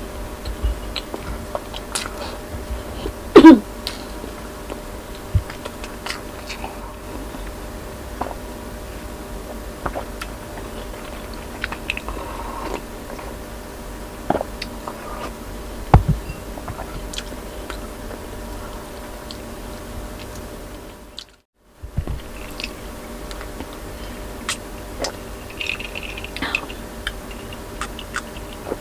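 Close-miked eating sounds: chewing, lip smacks and swallows of rice and pork sinigang broth, with sips of broth from a glass bowl, as scattered short mouth clicks over a faint steady hum. The sound drops out briefly about two-thirds of the way through.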